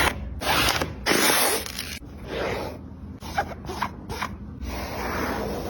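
A run of rough rasping and scraping strokes, three long ones at first and then several shorter ones with brief squeaks, the sound of a basketball shoe's materials being cut and pulled apart.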